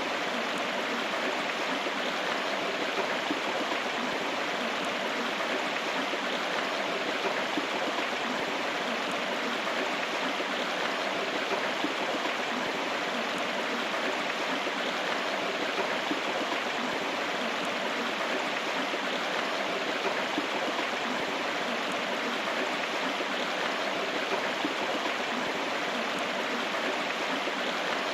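River water flowing over stones: a steady rushing and babbling that does not change.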